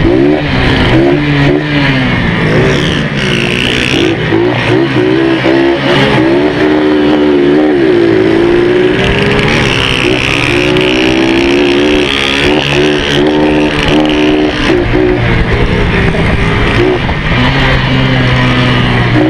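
Single-cylinder engine of a modified Honda CG motorcycle running hard, revving up and down again and again as the rider works the throttle and gears, heard from on board the bike with wind rushing over the microphone.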